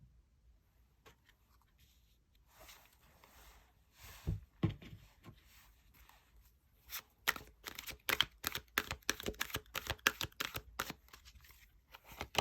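Tarot cards being handled and shuffled on a table: a soft rustle, a couple of dull knocks about four seconds in, then a quick run of crisp card snaps through the second half.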